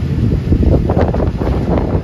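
Passenger train running, its wheels rattling and clicking over the rails, with wind buffeting the microphone.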